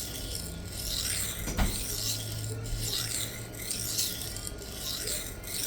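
Steel knife edge scraping on the coarse 325-grit side of a brand-new Sharpal diamond plate in repeated gritty strokes, about one a second. The new plate is cutting very aggressively. A single knock comes about a second and a half in.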